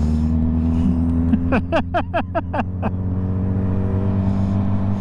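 Motorcycle engine running steadily while riding, with a quick run of about six short falling chirps about a second and a half in.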